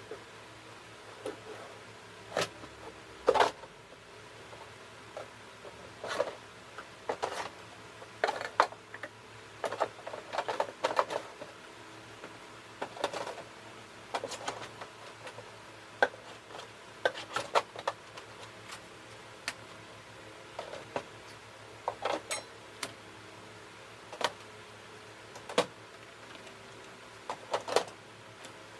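Scattered light knocks and clicks of small hard objects being handled and set down, irregular, with a few sharper knocks among them.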